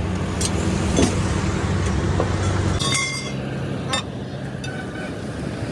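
A vehicle engine running steadily at idle, with a few sharp clicks and knocks over it, one of them followed by a brief ringing tone like metal struck.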